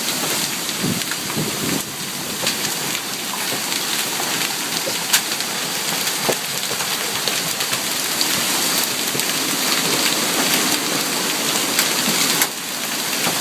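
Heavy rain and hail pelting down in a severe storm: a dense steady hiss with scattered sharp knocks of hailstones, the loudest about five seconds in.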